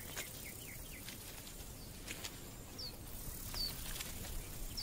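Faint outdoor ambience with small birds giving short, high, downward-sliding chirps, three of them in the second half, and scattered light clicks and taps.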